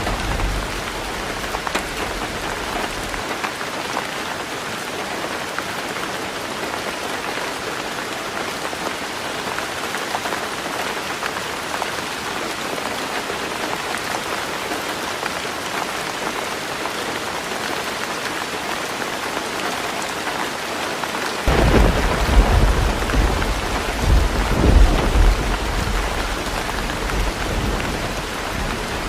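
Heavy rain falling steadily on a tin roof. A low thunder rumble dies away in the first few seconds, and another breaks in suddenly about three-quarters of the way through, swelling twice before easing off.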